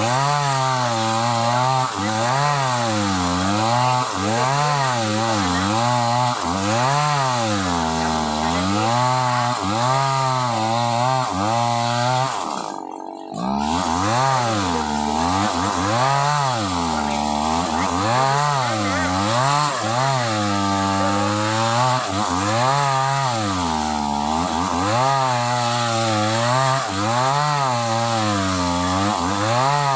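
Sumura CS6500S two-stroke chainsaw cutting through old wood, its engine pitch rising and falling every second or so as it bogs under load and picks up again. It sounds strained in the cut. The note briefly drops away about halfway through.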